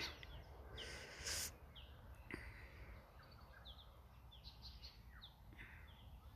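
Wild birds chirping faintly among the trees: many short, high, downward-sweeping chirps scattered through, over a low steady background hum, with a brief hiss about a second in and a single click a little after two seconds.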